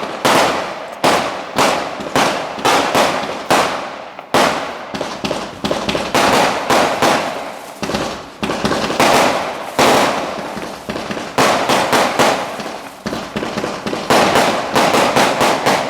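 Fireworks going off in quick, irregular succession: many sharp bangs, some overlapping, with crackling between them.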